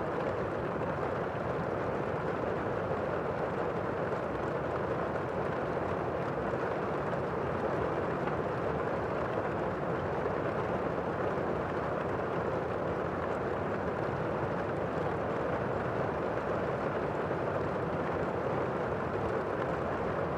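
Steady rain, an even, unbroken rushing sound.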